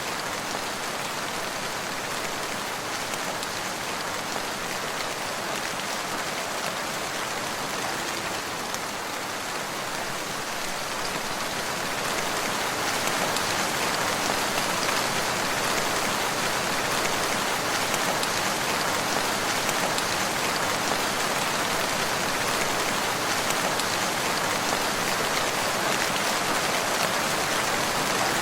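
Steady rain falling, an even hiss of many drops, growing somewhat heavier and louder about twelve seconds in.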